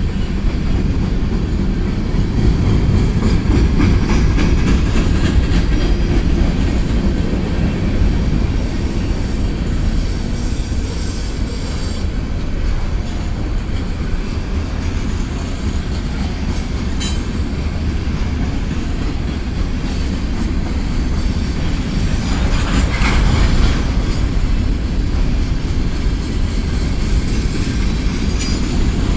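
Freight cars, mostly covered hoppers, rolling past on steel wheels: a steady heavy rumble with rail clatter, and a brief higher squeal of the wheels about three-quarters of the way through.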